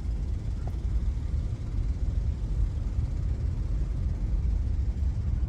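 Steady low, buffeting rumble without any clear pitch, the kind wind makes blowing across a microphone outdoors.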